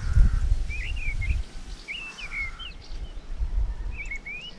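A songbird singing short warbling phrases, about three in a row, over a low rumble.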